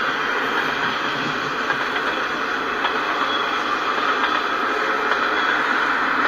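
Freight train of tank cars rolling steadily past, a continuous noise of steel wheels on rail.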